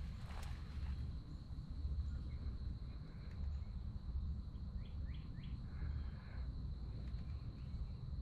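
Woodland ambience: a steady, high-pitched insect drone, a low rumble of wind on the microphone, and three short bird chirps about five seconds in.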